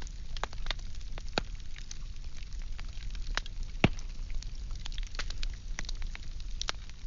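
Firewood burning, with irregular sharp crackles and pops over a steady low rumble of the fire; one pop a little under four seconds in stands out as the loudest.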